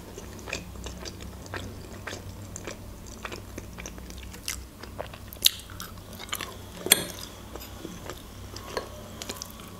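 Close-miked chewing of fried pelmeni: soft wet mouth clicks and smacks throughout, with a few sharper clicks in the second half.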